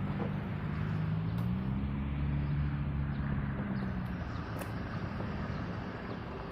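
Diesel freight locomotives passing with their engines running: a low drone that swells to its loudest about halfway through, then eases off.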